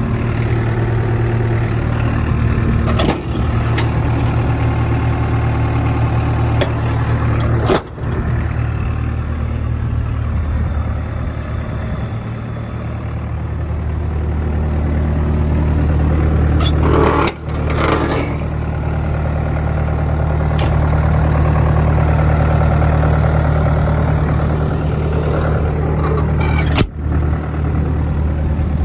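Caterpillar 312 BL hydraulic excavator's diesel engine idling steadily, growing slightly louder toward the middle, broken by a few brief sharp dropouts.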